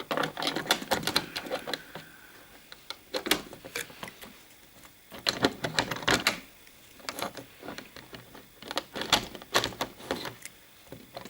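Small clicks and clatter of a model railway vehicle's wheels being set onto the track by hand. The clicks come in several separate clusters with short quiet gaps between them.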